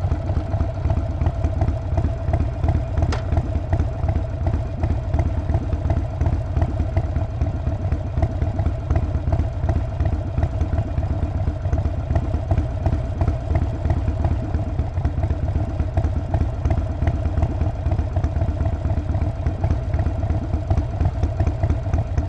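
Harley-Davidson Sportster Forty-Eight's air-cooled 1200 cc V-twin idling steadily, with its uneven low exhaust pulsing.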